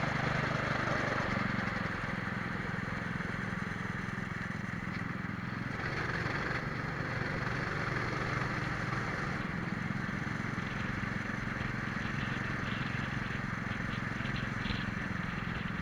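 Twin-engine Prokart's engines running at low, steady revs, with no rising or falling revving, over a constant hiss.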